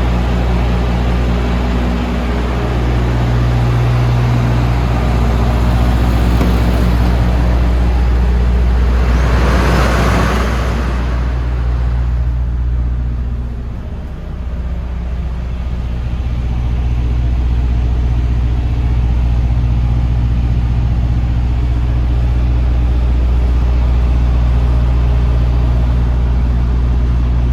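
DAF CF290 truck's turbocharged diesel engine idling steadily, with a rushing swell that rises and falls about nine to eleven seconds in.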